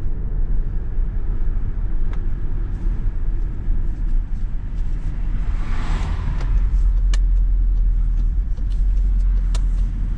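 Volkswagen Golf 7 R with an Akrapovic exhaust on the move: its turbocharged four-cylinder engine and road noise make a steady low rumble. A brief swell of noise rises and falls about six seconds in.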